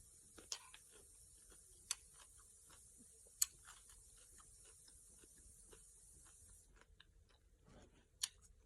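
Close-up chewing of crisp cucumber salad: many small wet crunches and mouth clicks, with a few sharper clicks standing out. A faint steady hiss stops about two-thirds of the way through.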